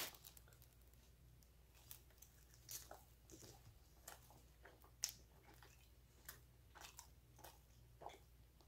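Faint chewing of a bite of glazed doughnut, heard as a scatter of soft, irregular short clicks, the sharpest about halfway through.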